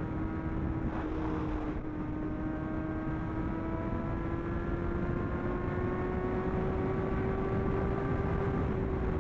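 Superbike engine running steadily at high revs while riding, its pitch creeping slowly up and easing off slightly near the end, under heavy wind noise on the microphone.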